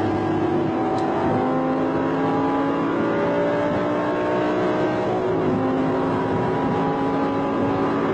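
Audi car's engine heard from inside the cabin, pulling hard under acceleration: its pitch climbs steadily, dropping with an upshift about a second in and another a little past halfway, then climbing again.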